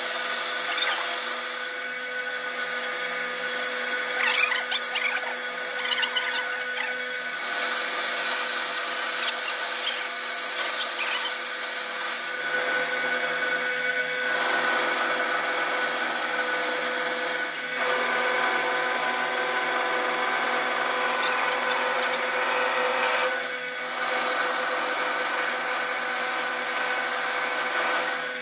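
A metalworking machine tool running steadily with a continuous hum, cutting metal. It gives scratchy bursts in the first third and runs louder and fuller from about halfway, with a couple of brief dips.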